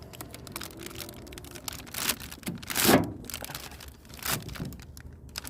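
Handling noises from hand work on a motorcycle rear shock as a rubber bushing is pushed into its eye: a few short knocks and scrapes, the loudest about three seconds in.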